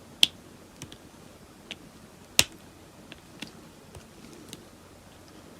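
Hand cutters snipping hard plastic off an action figure's head: two loud sharp snaps, one just after the start and one about two and a half seconds in, with fainter clicks of the tool and plastic between.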